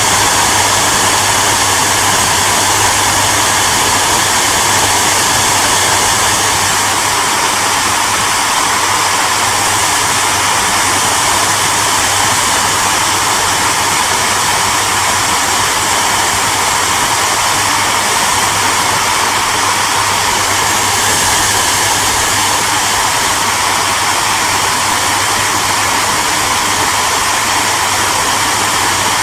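Hair dryer running steadily: a constant rush of air with a low motor hum underneath.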